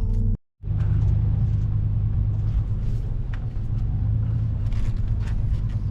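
Truck driving over a rough dirt track: a steady low engine and road rumble with scattered knocks and rattles. The sound drops out completely for a moment about half a second in.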